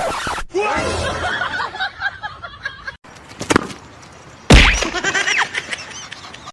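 People laughing, with a sharp thump about four and a half seconds in, followed by further voices.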